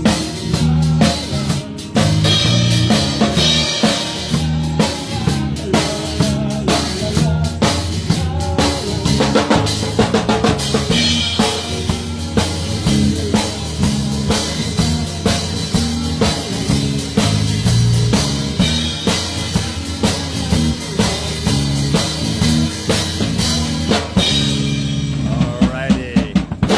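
Live band playing an instrumental number, a drum kit keeping a steady beat under a bass line, until the music stops right at the end.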